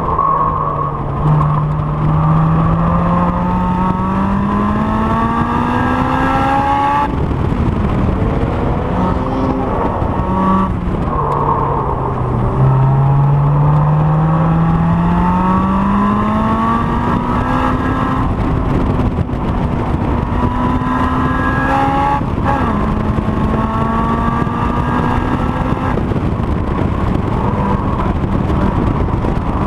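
Honda S2000's four-cylinder engine running hard on track. Its pitch climbs in long sweeps through the rev range, drops sharply twice as it lifts and shifts, and it holds high revs in between.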